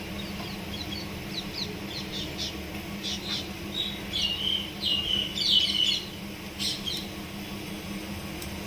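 A small bird chirping a quick run of short high notes, busiest a little after the middle, over a steady low hum.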